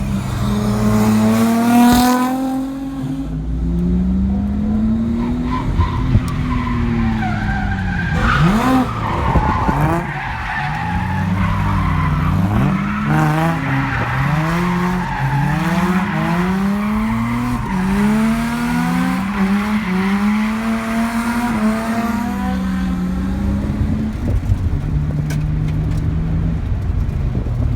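Supercharged Nissan 350Z's V6 engine revving hard and dropping back again and again while the tires squeal in a drift. Through the middle the pitch swings up and down about once a second, then the engine settles to a steady idle near the end.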